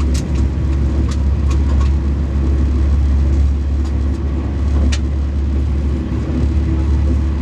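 Alfa Pendular tilting train running at speed: a steady, loud low rumble with a few sharp clicks.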